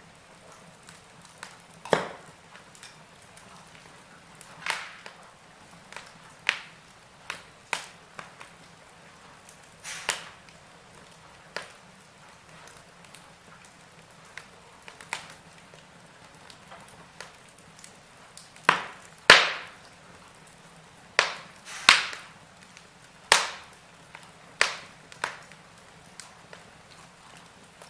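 Wood fire in a fireplace crackling: sharp pops and snaps at irregular intervals over a soft hiss, with a run of louder pops about two-thirds of the way through.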